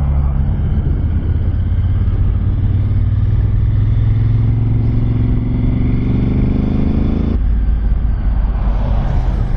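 Motorcycle engine pulling under acceleration, its pitch rising steadily for several seconds, then dropping suddenly about seven seconds in as the rider shifts up a gear.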